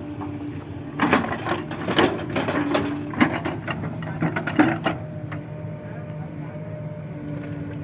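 Diesel engine of a backhoe loader running steadily, with a rapid clatter of knocks and bangs from about one to five seconds in.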